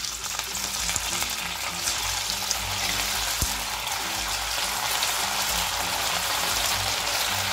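Semolina-and-potato snack squares deep-frying in hot oil in a kadhai: a steady sizzle and crackle that grows a little louder as more pieces go into the oil.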